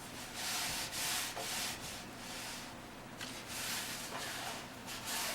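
Hand rubbing strokes across the rusty steel dash panel of a 1932 Plymouth, uneven and about one or two a second, as the vinegar-soaked area is wiped and scrubbed to check how much pitted rust it has loosened.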